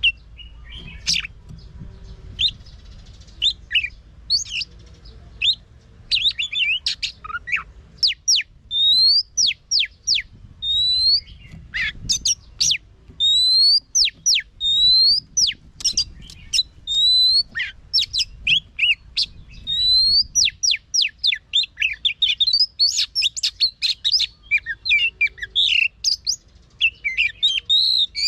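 Oriental magpie-robin singing a loud, varied song of sharp whistles and rising slurred notes. The notes are scattered at first and become a dense, fast run of repeated phrases from about a third of the way in.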